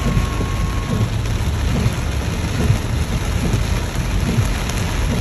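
Loud, steady rush of water noise with irregular low rumbles underneath.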